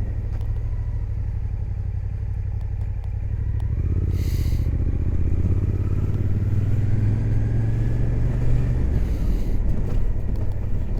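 Suzuki GSX-8S parallel-twin engine running while the bike is ridden, heard through a microphone inside the helmet. It pulls harder from about four seconds in, with a brief hiss at that moment, builds steadily and eases off near the end.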